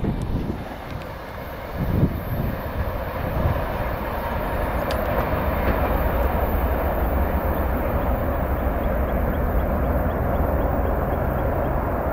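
A train running by on the CSX main line: a steady rumble of wheels on rail with a low engine hum.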